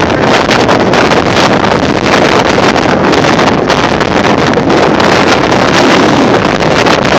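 Strong storm wind buffeting the microphone: a loud, steady rushing roar.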